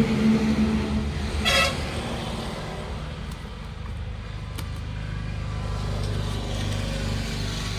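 Vehicle traffic: a motor vehicle running with one short horn toot about a second and a half in, followed by a steady low engine hum.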